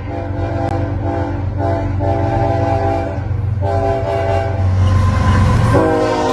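Diesel locomotive's multi-chime air horn sounding in long blasts over the loud rumble of the engine and train. After a gap filled by the rumble, the horn comes back near the end at a lower pitch, dropping as the locomotive passes.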